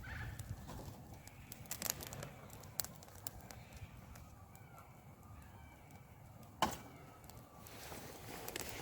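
Campfire of dry wood crackling, with a few sharp pops; the loudest pop comes about two-thirds of the way in.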